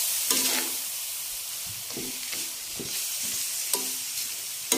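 Chicken feet frying in sauce in a wide metal pan, sizzling steadily as a spatula stirs and scrapes through them.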